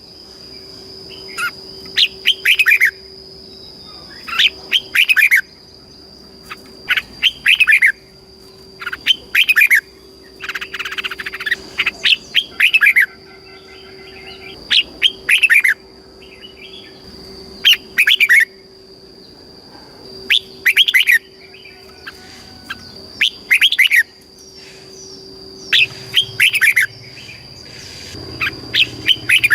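Red-whiskered bulbul singing, short bright song phrases repeated about every two seconds.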